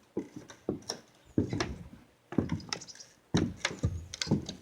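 Footsteps on a wooden deck: about seven dull thumps on wood, a half second to a second apart.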